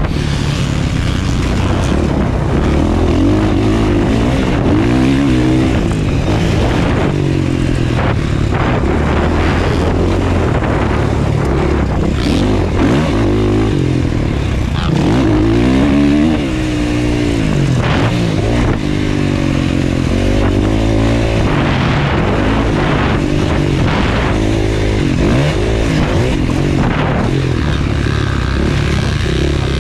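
Motocross bike engine racing over a dirt track, its pitch rising and falling over and over as the throttle is opened and shut, with scattered knocks and clatter.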